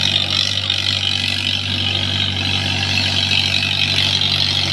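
Tractor engine running steadily at an even speed, with no change in revs.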